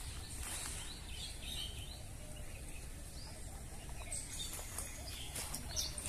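Small birds chirping in short, scattered calls over a steady low background rumble, with a few footsteps near the end.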